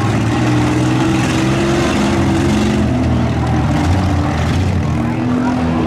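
Several demolition derby minivan and car engines running and revving together, their pitches rising and falling against each other, with no clear crash.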